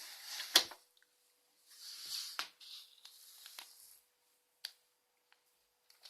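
Hands handling plastic toys: a sharp plastic click about half a second in, then soft rustling and a few lighter clicks.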